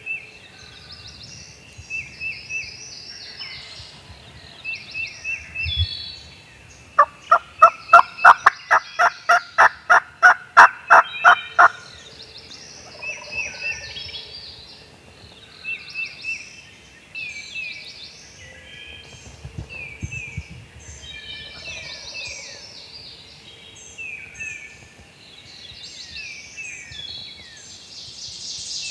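Wild turkeys calling at close range: a loud run of about twenty evenly spaced yelping notes, about four a second, lasting some five seconds, with turkey gobbling and songbirds chirping throughout.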